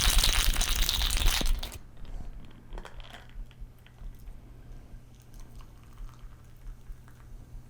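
Cocktail shaker full of ice being shaken hard, a dense rapid rattle that stops about a second and a half in, followed by faint scattered clinks of ice and glass.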